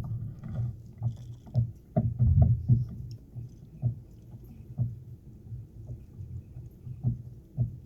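Irregular soft knocks and water slaps on a fishing kayak's hull, a few per second, with faint small clicks above them.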